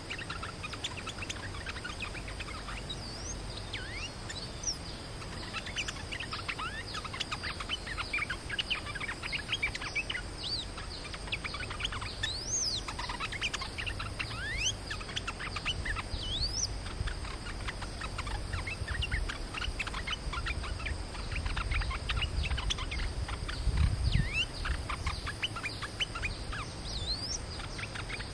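Bulbuls calling: many quick, short chirps and rising and falling whistled notes, over a low background rumble that swells briefly near the end.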